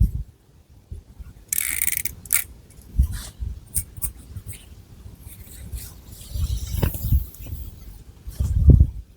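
Long fingernails scratching through long hair and over the scalp close to the microphone: irregular crisp scratchy rustles, mixed with a few dull low thumps.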